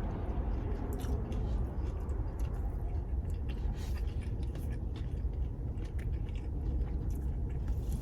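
A person biting and chewing a hard, overcooked flatbread crust, with scattered small crunches and mouth clicks, over a steady low rumble.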